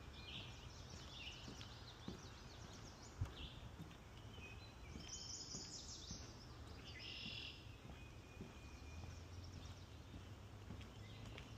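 Several songbirds singing in a spring swamp forest, short repeated phrases over a faint low rumble, with one sharp knock about three seconds in.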